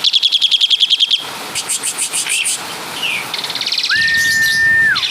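Javan pied starling (jalak suren) singing. It gives a fast, even trill about a second long, then scattered chattering notes and a buzzy rattle, and near the end a clear whistle held flat for about a second. Its song is built from imitated calls of other birds, such as the kapas tembak and the caladi woodpecker.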